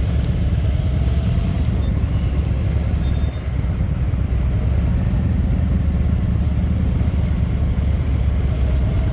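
Motorcycle running at a steady speed: a constant low engine drone mixed with wind rumble.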